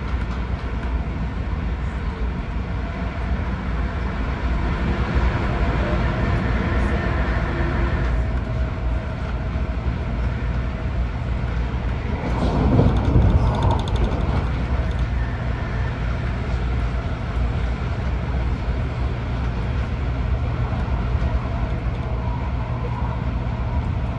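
Cabin running noise of an MTR Airport Express Adtranz-CAF A-Train moving along the line: a steady low rumble of wheels and traction, swelling briefly louder about halfway through.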